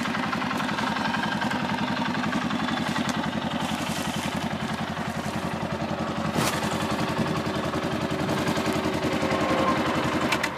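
Arctic Cat 700 engine running steadily with an even firing beat, with a sharp click about six and a half seconds in.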